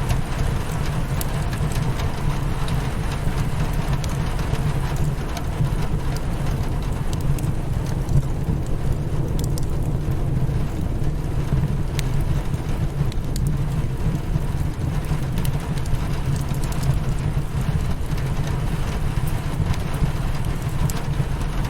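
Steady rain hitting a window over a low rumble, with a wood fire crackling in scattered sharp pops.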